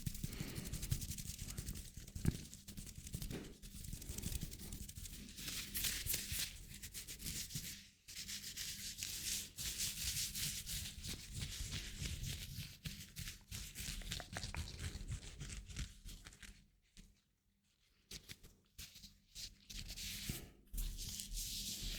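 Hands rubbing and brushing against each other close to the microphone, a continuous dry friction with fine crackles. It stops for a moment about two-thirds of the way through, then starts again.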